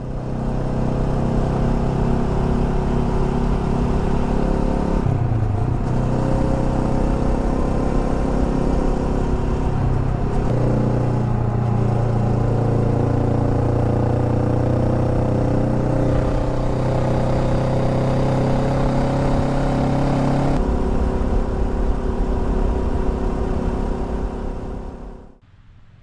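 Honda Rebel 500's parallel-twin engine running under way, its note rising slowly with speed and shifting several times. The sound cuts off suddenly near the end.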